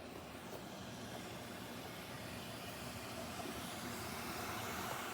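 Heavy rain falling, a steady hiss that grows slowly louder.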